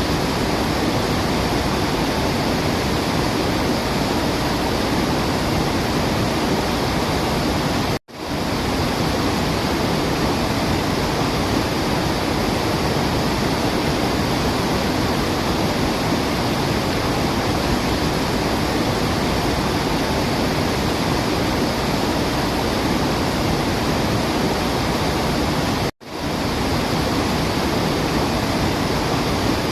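Waterfall's steady rushing water. It cuts out abruptly twice, about eight seconds in and again near the end, and swells back within a moment each time.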